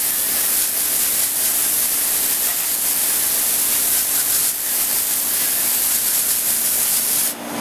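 Garden hose spraying water through an air conditioner's condenser coil fins, a steady loud hiss that cuts off near the end and leaves a low steady hum.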